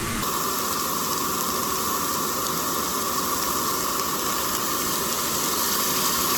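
Chicken and teriyaki sauce sizzling in a hot pan on a camp stove: a steady hiss that gets louder just after the start, as the sauce hits the pan, and then holds.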